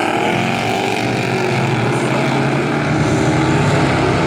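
Four-cylinder dirt-track race trucks accelerating together at a green-flag restart, several engines revving hard with their pitch rising and falling.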